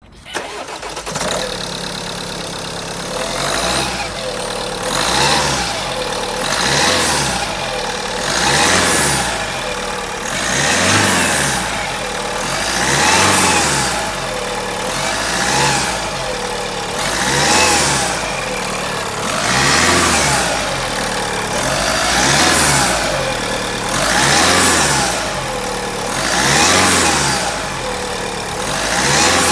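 Engine being revved over and over, its pitch rising and falling about once every two seconds, each rev swelling in loudness and dropping back toward idle.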